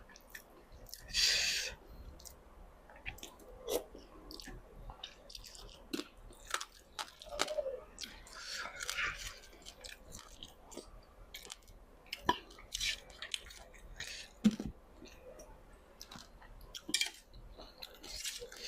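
A person chewing and crunching boiled frogs with eggs inside, close to the microphone: irregular wet mouth clicks and crunches, with longer noisy crunching bursts about a second in and again around eight to nine seconds.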